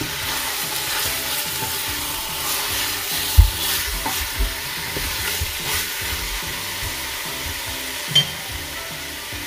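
Raw chicken pieces sizzling as they are sautéed over medium-high heat in a stainless steel pot, with a wooden spoon stirring them and scraping the pot. A few short knocks of the spoon against the pot, the loudest about three and a half seconds in.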